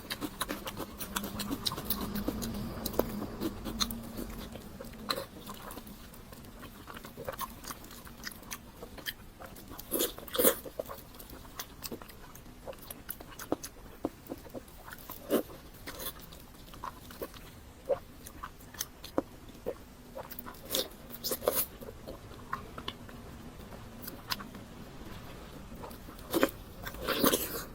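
Close-up eating sounds: a person biting and chewing food, with irregular crunches and wet mouth clicks, the loudest bursts about ten seconds in and near the end.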